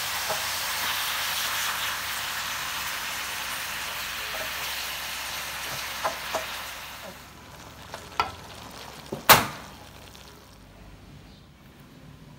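Water mimosa and beef sizzling in a wok while a wooden spatula stirs them. The sizzle fades after about seven seconds, leaving a few sharp clicks and knocks, the loudest about nine seconds in.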